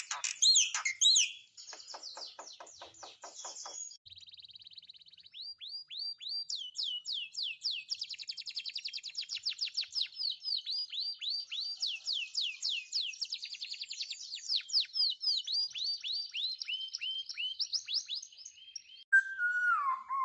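Songbirds singing. Loud chirps open the song, followed by a fast rattling trill, then a long run of quick, high, down-slurred whistled notes, several a second.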